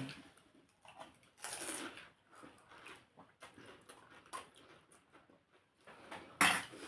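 Puchka (pani puri) being eaten in one mouthful: scattered short crunching and wet chewing noises, with a louder, sharper one near the end.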